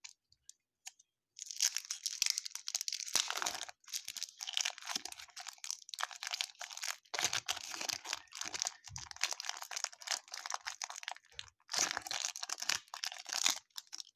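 Trading-card pack wrapper being torn open and crinkled by hand, a dense crackling and tearing with a few short pauses.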